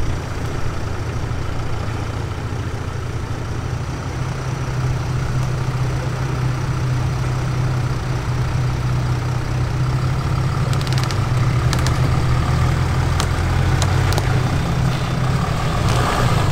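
Land Rover Defender off-roader's engine running steadily at low revs, with a few sharp clicks in the second half.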